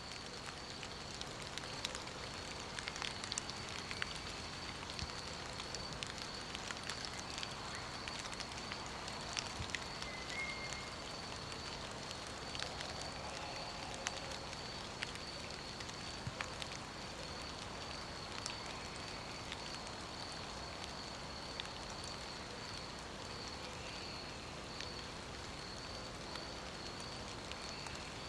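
Steady rain ambience: an even hiss of falling rain with scattered sharp drop ticks.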